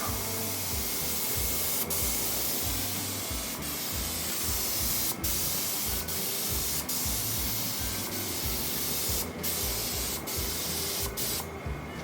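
Air-powered paint spray gun hissing steadily as paint is sprayed onto a car body, with several brief breaks as the trigger is let off between passes. The spraying stops near the end, and a low, uneven rumble runs underneath.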